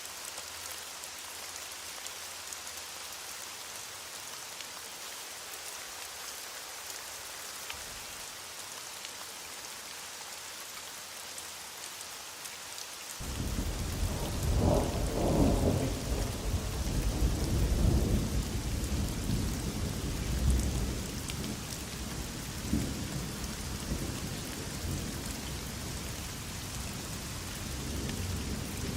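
Heavy rain falling steadily. About halfway through, thunder breaks in suddenly, rumbles loudest for several seconds, then dies away into fainter rumbles.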